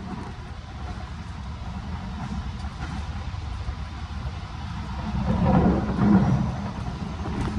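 Long Island Rail Road commuter train running at speed, heard on board: a steady low rumble of wheels on rails that swells louder for about a second and a half, around five to six seconds in.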